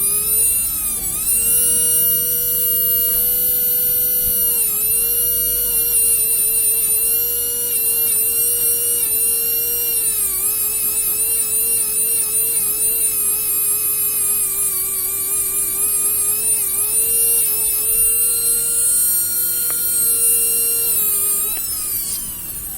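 Small TWT Dinamax electric motor of a Tamiya mini 4WD car running at high speed: a steady high whine that dips in pitch briefly a few times, then falls in pitch and fades near the end as the motor winds down.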